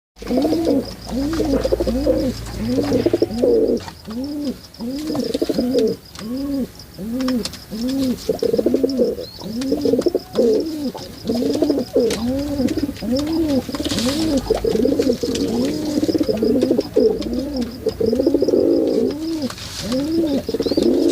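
Pigeons cooing over and over, a steady run of low notes that rise and fall, about two a second, with several calls overlapping.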